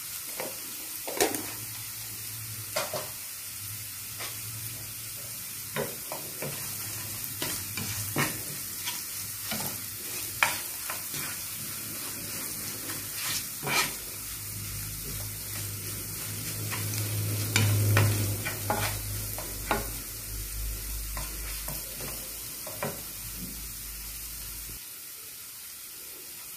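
Wooden spoon stirring ginger, green chillies and turmeric frying in oil in a nonstick pan. A steady sizzle runs under irregular scrapes and knocks of the spoon against the pan, and a low hum comes in for a stretch past the middle.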